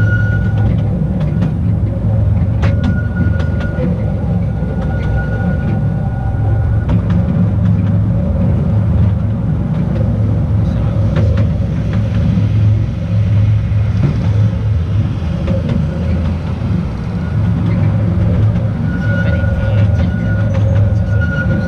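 Narrow-gauge mountain railway train running along the track: a steady low rumble of wheels on rails, with a thin high tone that comes and goes, strongest near the start and end, and scattered sharp clicks from the track.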